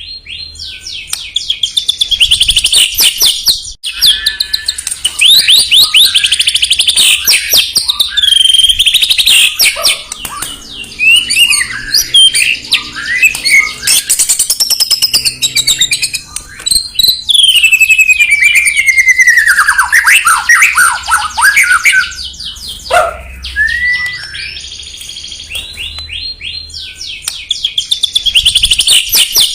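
White-rumped shama (murai batu) singing loudly and without a break: rapid rattling trills run into clear whistled phrases and long sweeping slurs. This is the kind of heated song played as a pancingan to fire up another shama.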